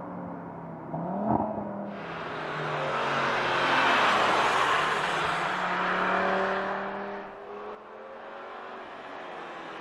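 Audi RS3's turbocharged 2.5-litre inline-five engine running, with a short rising rev about a second in. It then swells into a pass-by rush of exhaust and tyre noise that peaks about four seconds in and fades by about seven seconds.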